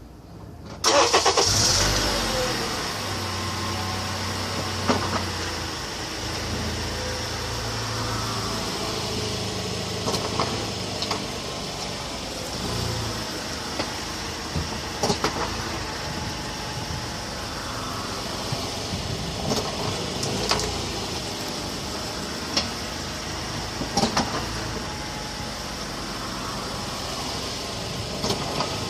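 Honda car's engine starting about a second in, then running as the car drives. Twice, a short click comes from the car just after braking while going forward.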